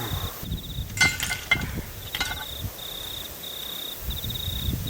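Crickets chirping in a steady, high, pulsing trill. There are a few sharp clicks about one and two seconds in, over a low rumbling background.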